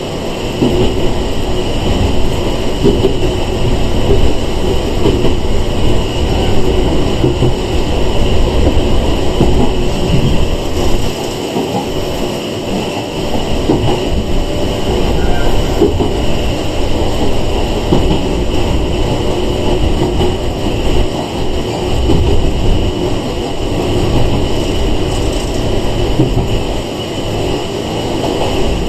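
Running noise heard inside a Sanki Railway 101-series electric train (ex-Seibu 401 series) at speed: a steady rumble of wheels on rail with a constant high whine, its loudness rising and falling a little.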